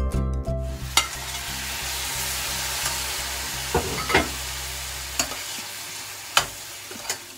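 Shrimp sizzling as they hit hot garlic butter in a stainless steel sauté pan, starting about a second in with a sharp clink and slowly easing off. A metal utensil clinks against the pan several times as the shrimp are stirred.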